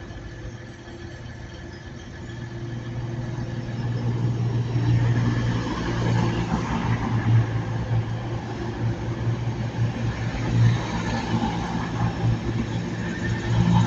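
Diesel multiple unit's underfloor engines running with a steady low drone, growing louder over a few seconds as the train draws near, then holding.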